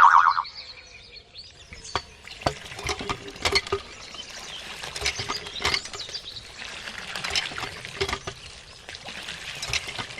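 Water pouring and trickling, with many small splashes and clicks, starting about a second and a half in. A brief, loud, high note sounds right at the start.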